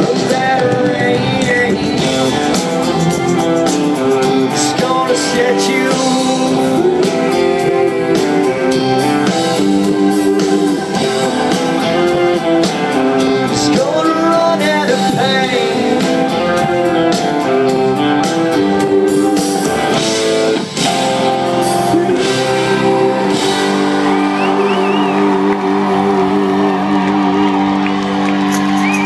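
Live country-rock band playing the song's closing instrumental section, with guitar lead lines over the band. About 23 seconds in it settles on a long held chord.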